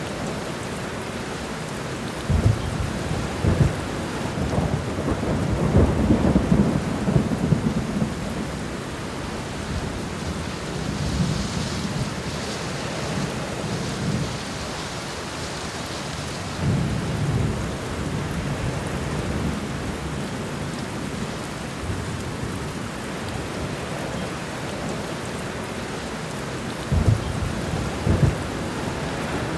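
Steady heavy rain with thunder rolling and crackling in several low surges, the strongest a few seconds in and again near the end.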